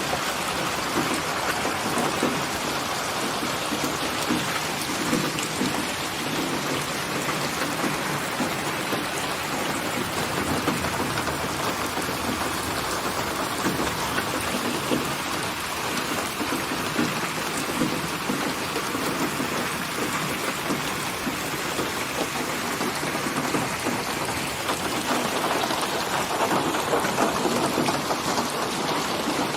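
Steady rain falling, with a low rumble of thunder through the middle.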